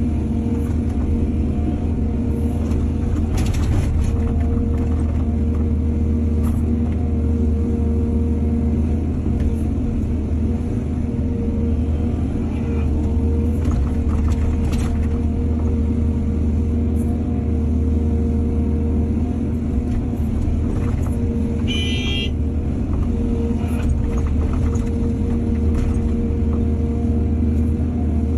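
Excavator's diesel engine running steadily under work, with a few short knocks and scrapes and one brief high squeal about three quarters of the way through.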